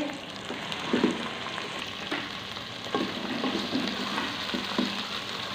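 Onion, garlic, ginger and green-chilli paste sizzling in hot oil in a pan while it fries toward brown. A spoon stirring it scrapes and knocks against the pan now and then, about once a second.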